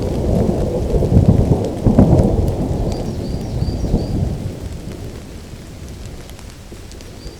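Thunder rumbling over steady rain, loudest in the first few seconds with a sharper crack about two seconds in, then dying away under the rain.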